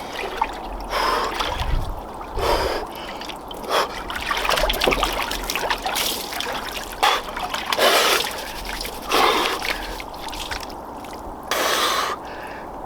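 Water sloshing and splashing in a cold plunge tub as a person submerges in near-freezing water, with a run of sharp gasping breaths from the cold shock, about one every second or two.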